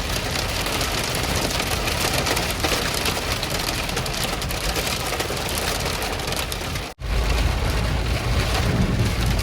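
Heavy rain pelting a car during a severe thunderstorm, a dense patter of many small hits. It breaks off for an instant about seven seconds in and resumes with a deeper rumble underneath.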